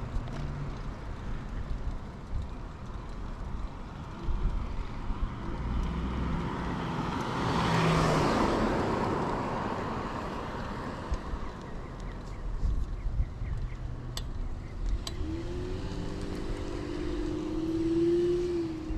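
A car passes the bicycle about halfway through, its tyre and engine noise swelling and fading, over a low rumble of wind and riding noise. Near the end a steady humming tone comes in.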